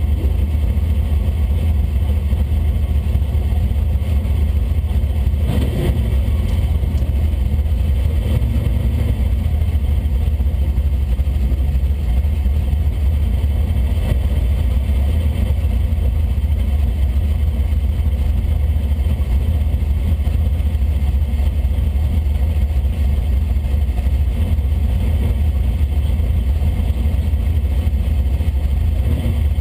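A 1965 Plymouth Belvedere drag car's engine idling steadily, a deep even rumble heard from inside the cabin.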